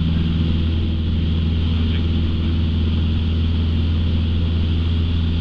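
Light training aircraft's piston engine and propeller droning steadily in flight, heard from inside the cockpit.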